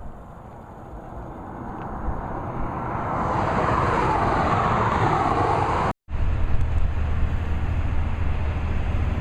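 Vehicle noise building up over the first few seconds, then an abrupt cut about six seconds in to a steady low rumble.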